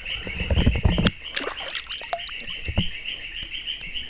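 Frogs calling in a steady, rapidly pulsing chorus at the riverside. A louder splash and rustle from the net being handled in the water comes in the first second, with a short one near three seconds.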